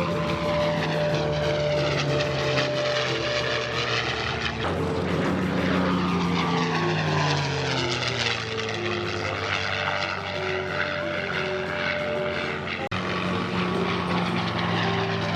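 P-51 Mustangs' Merlin V-12 piston engines running as the fighters fly past. The engine note falls in pitch about five seconds in as one goes by. The sound cuts out for an instant near the end.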